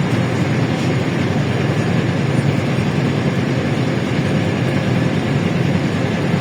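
Steady running noise of a LiAZ-677M bus under way, heard from inside: its ZIL V8 petrol engine and road noise at an even level throughout.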